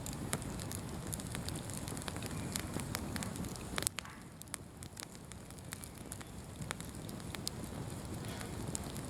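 An open bonfire crackling, with frequent sharp pops over a steady low rush of burning. About four seconds in the rush grows quieter while the pops go on.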